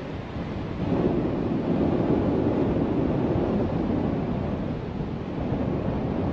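Strong wind buffeting the microphone in paragliding flight, a steady rough rushing that gets louder about a second in.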